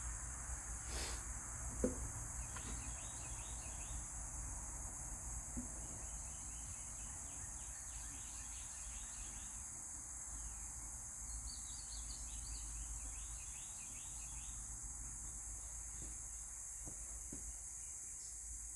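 Outdoor ambience: insects droning steadily at a high pitch, with scattered rapid chirps and a low rumble underneath. One short knock comes about two seconds in.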